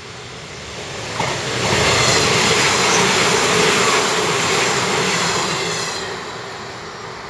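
An electric commuter train on the Sanyo Electric Railway main line passes close by: a rushing noise of wheels on rails that swells about a second in, stays loud for about four seconds, then dies away as the train goes.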